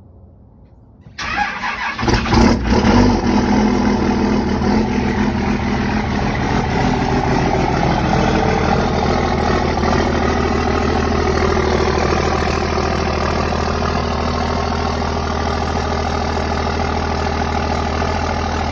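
Dodge Ram 2500's 5.9-litre 24-valve Cummins inline-six turbo diesel cold-starting: cranking about a second in, catching within about two seconds, then settling into a steady, loud idle. A cold start in below-freezing weather after the truck has sat for days.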